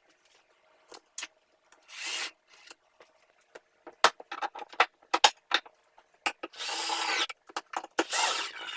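Shop work on the plywood parts of a miter-saw dust hood: sharp knocks and clicks of wood being handled, and three short bursts of a tool working the wood, the longest near a second, two of them close together near the end.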